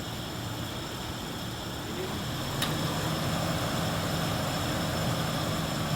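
Car engine idling steadily, now running after a rusty, water-contaminated fuel tank was cleaned and clogged injectors were cleared. A click about two and a half seconds in, after which the engine's hum is a little louder and steady.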